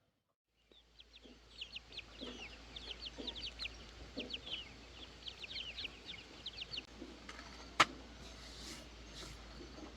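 Chickens peeping and clucking: a rapid flurry of short high peeps with a few low clucks under them, dying away about seven seconds in. A single sharp click just before the eight-second mark is the loudest sound.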